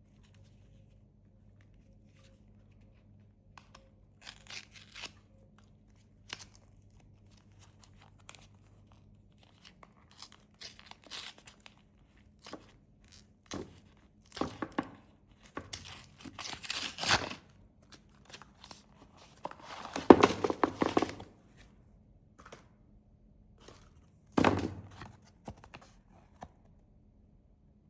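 Snack wrappers being torn open and crinkled in irregular bursts, with the loudest tearing a little past the middle and one sharp rip near the end.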